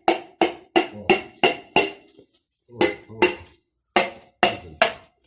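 Repeated hammer blows on a metal part, each ringing briefly, about three a second, then a short pause after about two seconds and a few more uneven blows.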